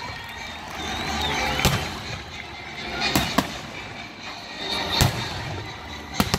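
Aerial fireworks shells bursting: about six sharp bangs at uneven intervals, with two close pairs, one about halfway through and one near the end.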